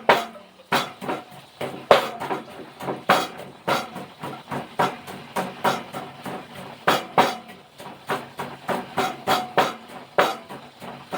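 Pestle pounding in a mortar, about two strikes a second with lighter taps between, crushing chillies, garlic and sugar for papaya salad. A faint steady hiss of chicken wings frying sits underneath.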